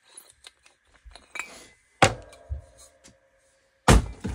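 Two sharp metallic clanks about two seconds apart, the first leaving a short ringing tone, with lighter clicks and handling noise before them: hard metal objects being knocked and set down on a workbench.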